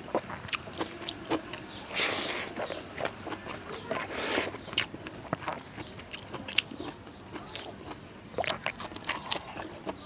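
Close-miked eating: chewing a mouthful of rice, dal and fried vegetables, with many small wet mouth clicks and smacks and two louder bursts about two and four seconds in.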